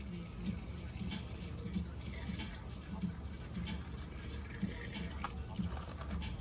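Engine oil dripping and trickling from a box truck's oil filter mount into a drain pan after the filter has been removed, over a steady low hum.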